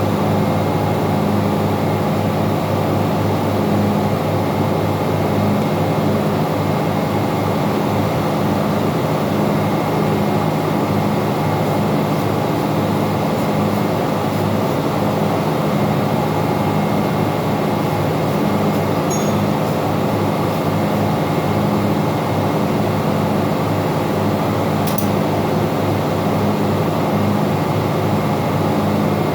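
Steady, loud drone of engine-room machinery running, with a low hum that throbs in a regular beat. Two faint ticks come through, about two-thirds of the way in and again near the end.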